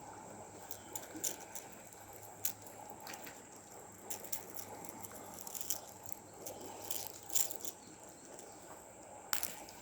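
Faint, irregular small clicks and rattles over a low, steady hiss.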